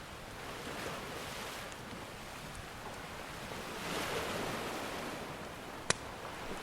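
Ocean surf washing in swells, one wave swelling about a second in and a larger one around four seconds in. Near the end there is a single sharp pop from a crackling wood fire.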